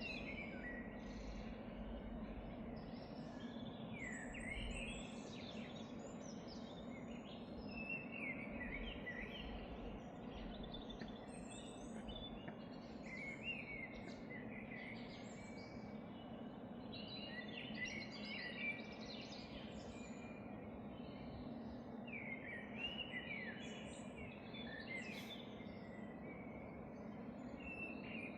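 Forest ambience: birds chirping and calling in short clusters every few seconds over a steady low background hum.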